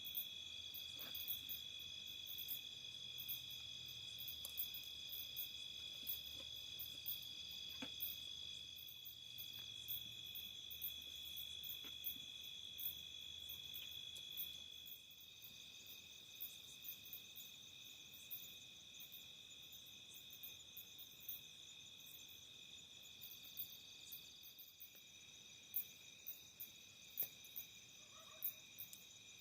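A steady chorus of insects trilling together at several high pitches, with quick high ticks throughout.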